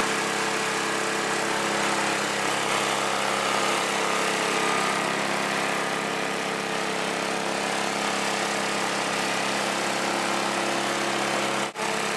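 Snowblower's small petrol engine running steadily at constant speed, with a brief drop-out near the end.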